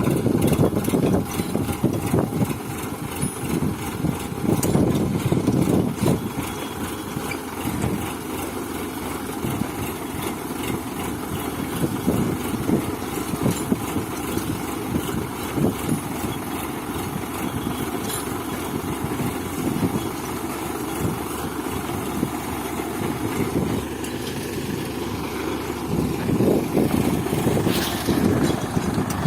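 Tractor engine running steadily while pulling a cultivator, swelling louder a few times, most plainly near the end.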